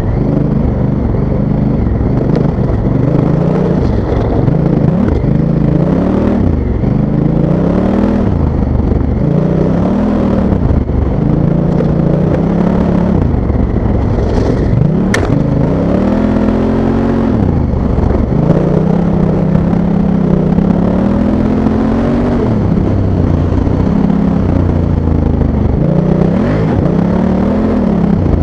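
Honda Africa Twin's parallel-twin engine revving up and down over and over as the throttle is worked, the bike pulling through soft sand. A sharp click sounds once about halfway through.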